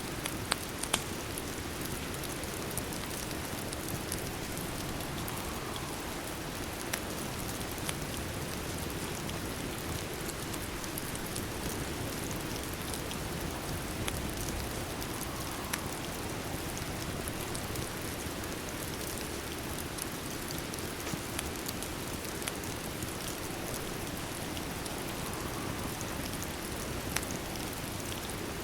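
Steady rain falling, with scattered sharp pops and ticks from a crackling fire.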